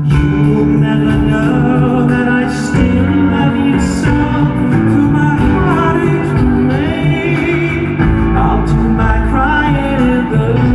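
Live band playing a pop ballad, with a male lead voice singing the melody over it.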